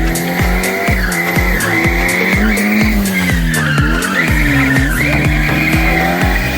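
Drift Chevette's engine revving up and down while its tyres squeal through a slide, the squeal wavering in pitch. Over it plays electronic dance music with a steady beat of about two thumps a second.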